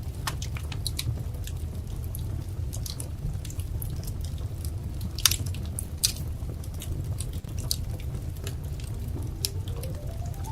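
Wood fire crackling, with irregular sharp pops and snaps over a steady low rumble of the flames; two louder pops come about five and six seconds in. A faint rising tone climbs in the last two seconds.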